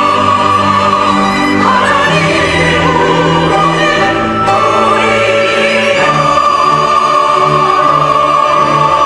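Church choir singing an anthem with orchestral accompaniment, sustained chords that change every second or two.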